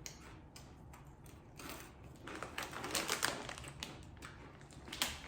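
Close-up crunching of spicy rolled tortilla chips (mini Takis Fuego) being chewed: a run of crisp cracks that is thickest in the middle, with one sharp crack near the end.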